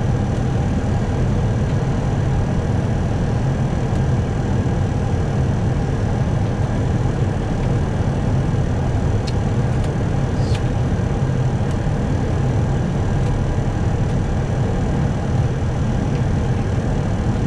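Steady flight-deck noise of an Airbus airliner on short final approach: a constant low rumble of airflow and engines, with two faint clicks about nine and ten and a half seconds in.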